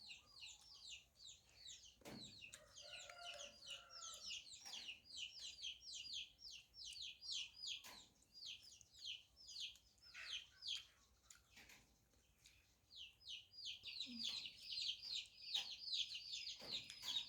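Chicks peeping: a dense, continuous run of short, high chirps that fall in pitch, several a second and overlapping, as from a brood of several birds. A few soft knocks and a brief lower call are heard, the call about three seconds in.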